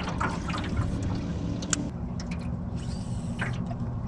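Small outboard motor on a jon boat running steadily, its pitch stepping down slightly about two seconds in, with water trickling and splashing alongside.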